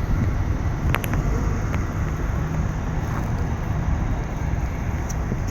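Steady low rumble of a freight train hauled by a VL10U electric locomotive, with a couple of brief sharp high squeaks about a second in and again near the end.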